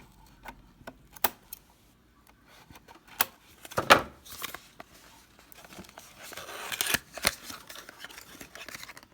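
Large scissors cutting open product packaging: sharp snips of the blades, the loudest about four seconds in, followed by tearing and crinkling of the packaging.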